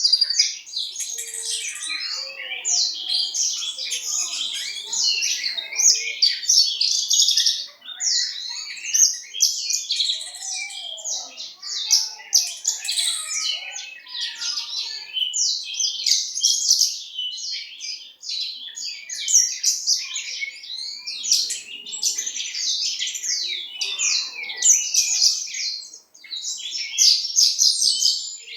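A Javan bush lark (branjangan) of East Java stock singing a long, rapid, varied warbling song almost without a break, pausing only briefly three times.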